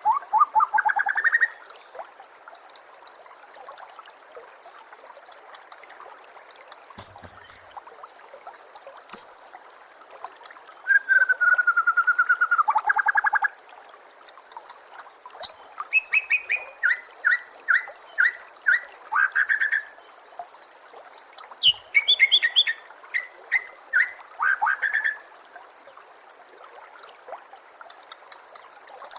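White-rumped shama (murai batu) singing in separate bursts of varied whistled notes and rapid trills, some very high, with pauses of a few seconds between phrases. A steady trickle of running water runs underneath.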